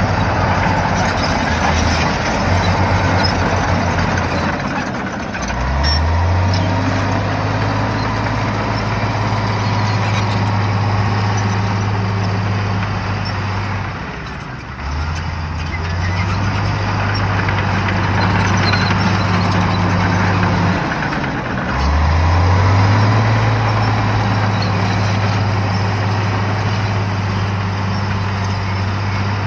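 Shantui bulldozer's diesel engine running hard. Its pitch rises quickly twice, about a quarter of the way in and again about three quarters in, as the dozer takes load, with a brief drop near the middle.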